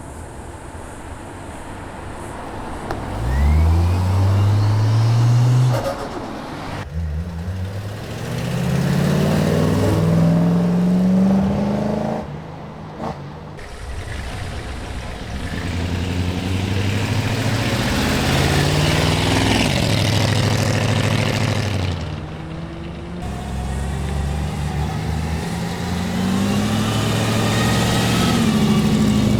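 Cars accelerating hard past one after another, four in turn. Each engine note climbs, drops back at a gear change and climbs again.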